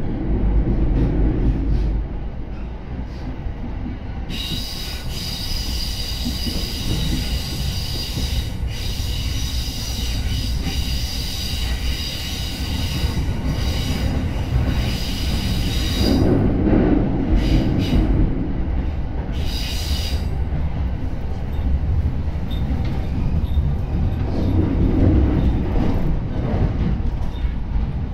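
Yokosuka Line commuter train running, heard from inside the car: a steady rumble of wheels on rails. From about four seconds in, the wheels squeal with a high, steady tone for some twelve seconds, followed by a few shorter squeals.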